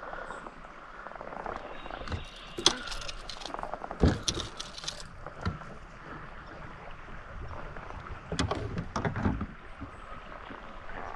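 Knocks and water sounds around a fishing kayak on the river. Scattered sharp clicks and thumps stand out a little under three seconds in and about four seconds in, with a cluster of them near the end.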